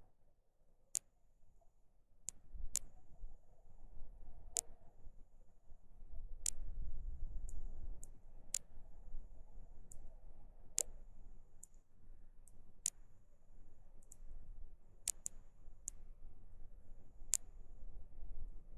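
River water heard through a submerged camera: irregular sharp clicks, about a dozen scattered through the stretch, over a low, uneven rumble of moving water. A faint, broken high whine comes and goes between the clicks.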